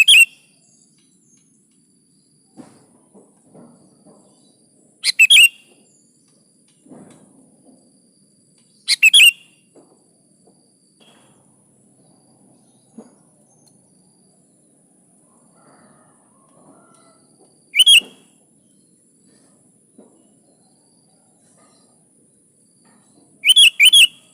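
Sooty-headed bulbul (kutilang) calling: short, loud, bright calls several seconds apart, five in all, the last one doubled. A faint steady high hiss runs underneath, with faint low rustling between the calls.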